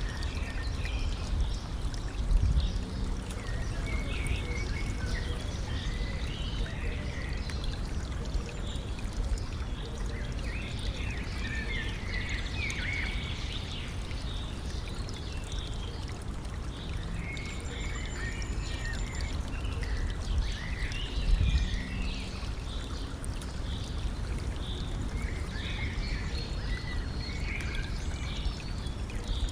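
A stream running and trickling steadily, with small birds chirping and singing throughout. A low rumble swells briefly twice, early on and about two-thirds of the way in.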